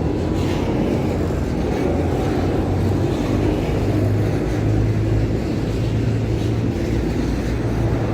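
Steady low rumble and hum of a passing diesel-hauled freight train.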